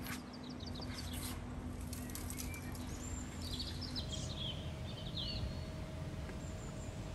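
Birds chirping a few times over a steady low outdoor rumble.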